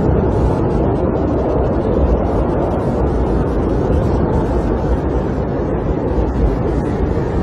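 Snowstorm wind buffeting a camper, heard from inside as a steady, loud low rumble, with faint fine ticking above it, as of snow or ice striking the shell.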